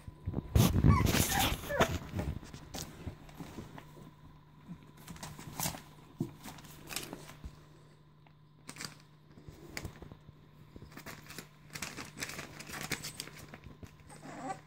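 American Staffordshire Terrier puppies whimpering and shuffling about, with a loud burst of rustling and knocking about a second in, then scattered small clicks and scuffles.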